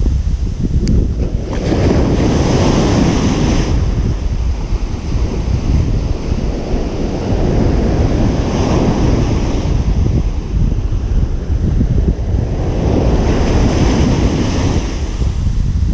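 Ocean surf breaking on a beach: three waves swell and wash in, about every five to six seconds, over a constant hiss of water. A steady low rumble of wind on the microphone runs underneath.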